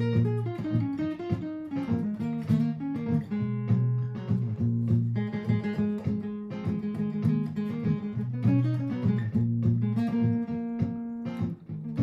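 Martin GPCPA4 acoustic guitar played through a looper: sustained low chords with a stream of plucked single notes improvised over them.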